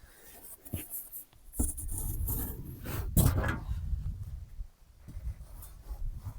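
Wind buffeting the microphone in gusts, with rustling and scraping from handling work and a sharp knock about three seconds in.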